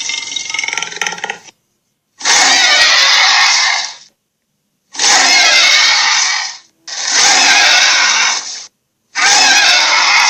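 Harsh, grating monster roar sound effects for the Lochnessgator, played one after another: one ends about a second and a half in, then four more loud roars of about two seconds each follow, with dead silence between them.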